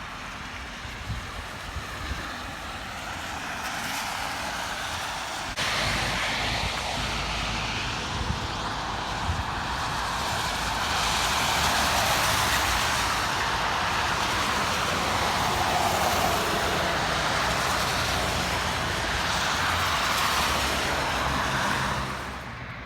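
Road traffic noise: tyre hiss from passing vehicles on snowy, slushy pavement with a low rumble. It grows louder about five seconds in, holds steady, and falls away near the end.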